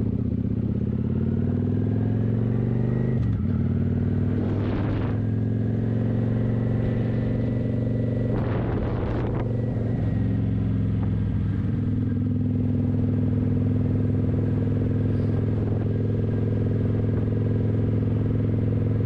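Kawasaki 900 motorcycle engine running under way, heard through a factory exhaust with the baffles taken out. Its pitch climbs over the first few seconds and drops about three seconds in, then holds steady. Two brief rushes of noise come around five and nine seconds in.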